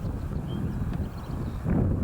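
Low rumble of a jet airliner's engines, mixed with wind buffeting the microphone; a louder gust swells near the end.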